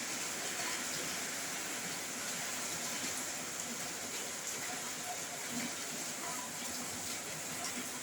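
Heavy rain falling steadily, an even hiss with scattered faint taps of drops on a roof.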